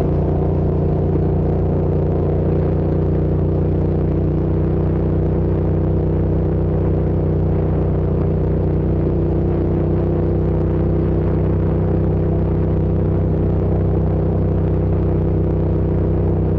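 Hyosung GT650's V-twin engine running at a steady, unchanging pitch.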